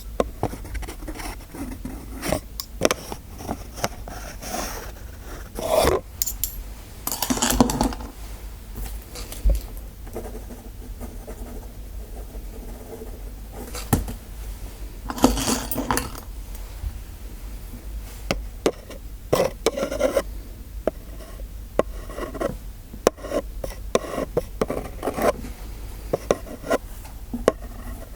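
Metal dental instruments clinking and scraping in irregular short strokes, with a few longer rubbing swishes.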